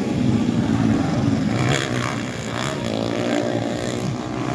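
Motocross dirt bike engines running and revving, the pitch rising and falling with the throttle.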